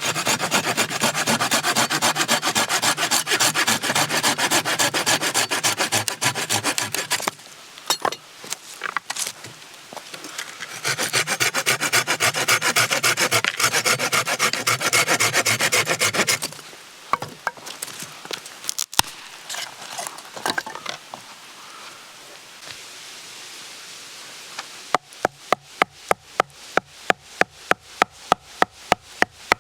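Hand saw cutting through firewood in two long spells of fast back-and-forth strokes, then a run of sharp wooden ticks, about four a second, near the end.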